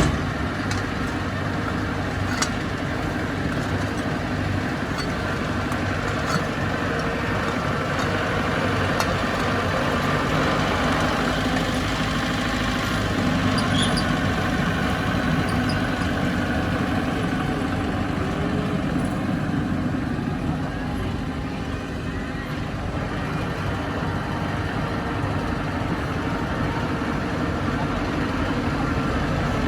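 Bulldozer's diesel engine running steadily, swelling a little partway through, with a few sharp metallic clicks scattered over it.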